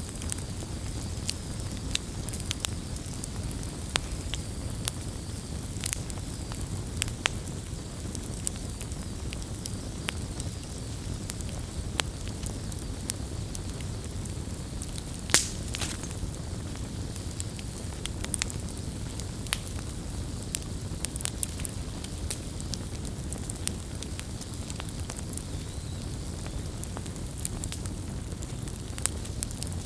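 Wood campfire burning, with a steady low rumble of flames and frequent sharp crackles and pops, one louder pop about halfway through.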